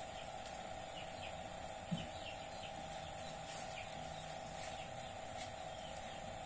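Birds chirping faintly with many short, falling chirps, over a steady hum.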